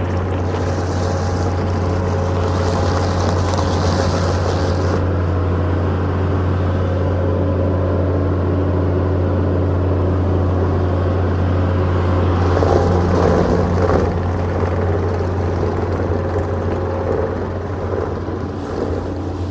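Old backhoe's engine running steadily with a deep, even drone, rising briefly in level about two-thirds of the way through.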